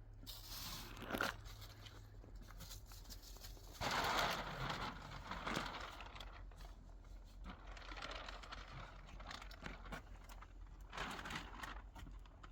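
Scattered rustling and crinkling handling noises in several short bursts a few seconds apart, the loudest about four seconds in, over a faint steady low hum.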